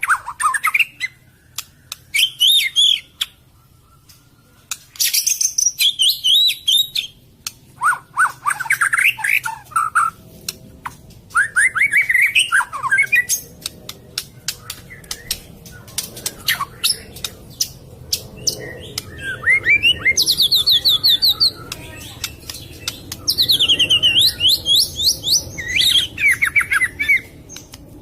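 White-rumped shama (murai batu) singing: a run of varied phrases of whistles and rapid trills with short pauses between them, with sharp clicks scattered among the notes.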